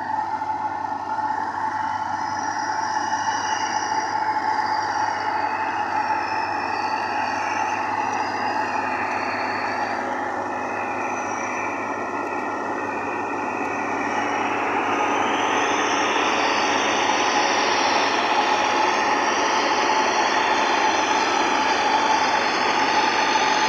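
Tractor engine driving a machine that makes wheat straw (tori), running steadily with a constant whine. It gets louder about fourteen seconds in.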